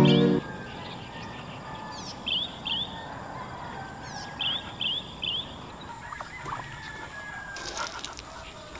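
Birds calling: short, high chirps that fall in pitch, in twos and threes, over a steady outdoor hiss. A louder low pitched sound cuts off about half a second in.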